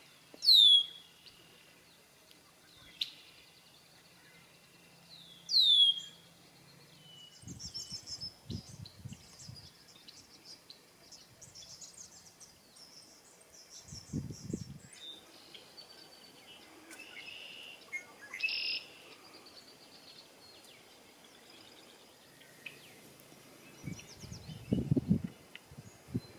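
Male red-winged blackbirds singing: two loud whistles sweeping downward, one near the start and one about five seconds in, then quick high chattering notes and scattered calls. Short bursts of low rumbling come and go, the loudest near the end.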